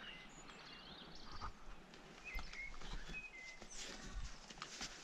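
Faint birdsong: a few short chirping calls. Light rustling and clicks come in near the end.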